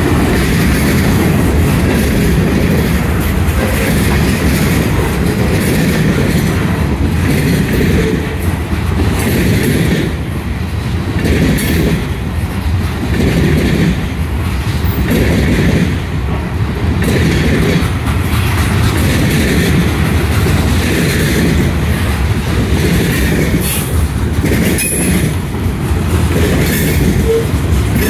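Freight train cars rolling past: a steady, loud rumble of steel wheels on the rails, with a repeating clickety-clack as the wheelsets pass over rail joints.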